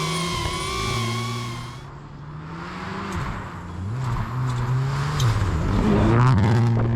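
A rally car at speed on a stage, its engine revving up and dropping back through gear changes and growing louder to a peak near the end. A steady droning tone cuts off about two seconds in.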